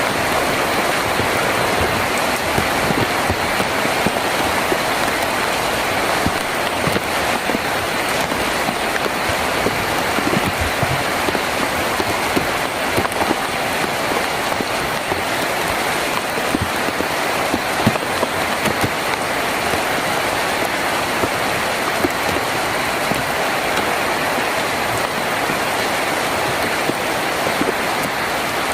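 Heavy rain falling on a tin roof: a steady, dense hiss with many small drop hits scattered through it.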